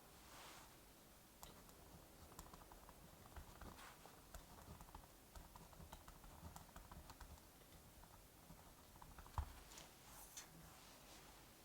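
Faint typing on a computer keyboard: soft, irregular key clicks over a low steady hiss, with one louder knock about nine seconds in.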